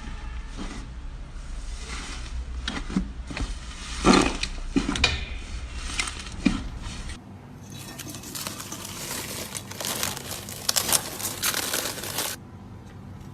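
Slime being squeezed and stretched by hand, a run of crackling, popping and sticky clicking sounds. The sound changes character about halfway through and stops shortly before the end.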